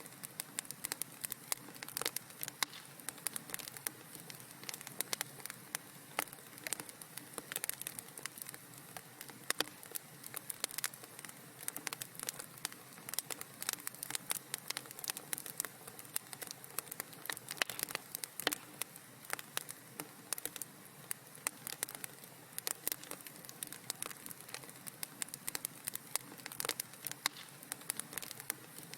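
Wood fire burning in a fireplace, crackling and popping irregularly over a soft steady hiss.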